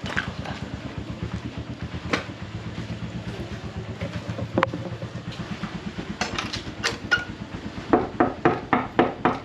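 A small vehicle engine running steadily with a fast low pulse, with a few sharp clicks. From about eight seconds in comes a regular series of louder knocks, about three a second.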